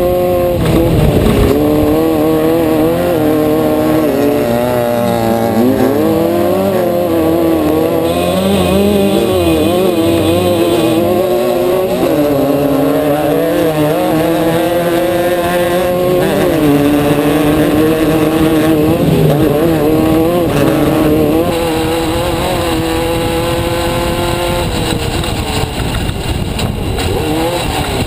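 Off-road race car's engine heard from inside the car, running hard and revving up and down without a break as the throttle is worked.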